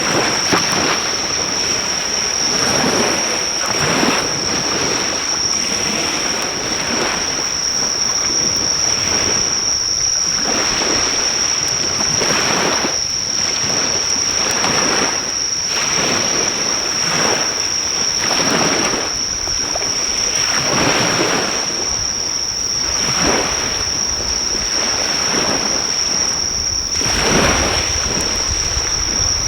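Sea waves washing onto the shore in repeated swells, with a steady high-pitched chorus of insects. A driftwood fire crackles faintly underneath, mostly drowned out by the surf.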